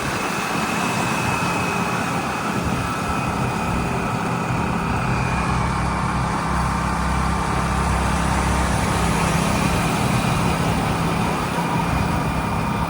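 Heavy diesel engine running steadily, a continuous low hum.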